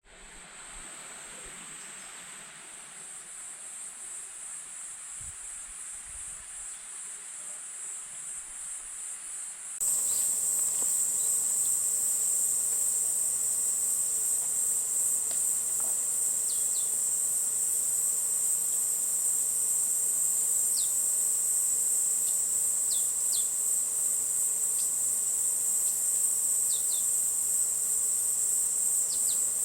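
Steady, high-pitched chorus of insects, growing much louder all at once about ten seconds in. A few brief falling chirps sound over it later on.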